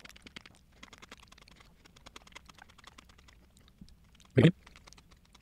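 Close-miked eating sounds: chewing and small mouth and fork clicks in a quick, irregular patter. A brief loud vocal sound breaks in about four seconds in.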